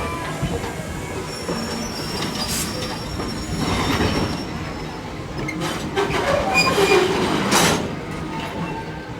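Train cars rolling along the track: steady running noise with the wheels squealing in thin, high tones, and a couple of sharp clacks from the rails.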